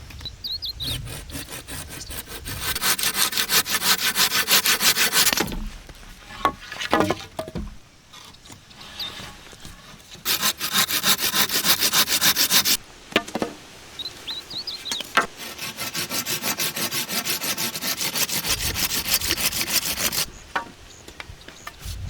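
Hand saw cutting through wood in three long bouts of quick, even strokes, with short pauses between them.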